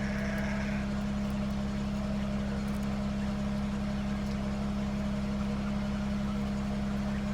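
Steady, unchanging low drone of a vehicle engine running, heard from inside the vehicle.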